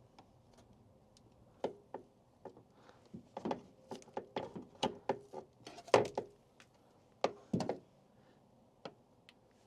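Irregular clicks, taps and short scrapes of a screwdriver prying and scraping old papery wasp nests out of the gap of a pickup truck's door.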